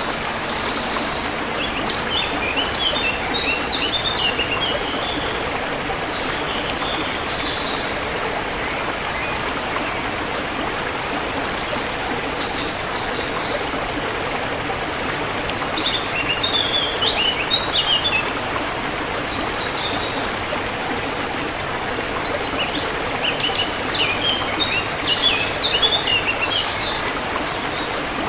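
Forest river flowing steadily, with songbirds chirping in short bursts of quick high notes every few seconds over the rush of water.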